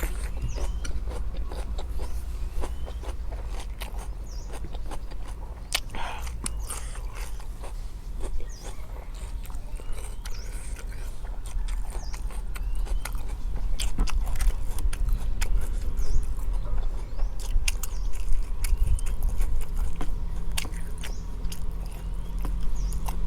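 A person chewing grilled tendon meatballs close to the microphone, with many short, crisp crunching bites throughout.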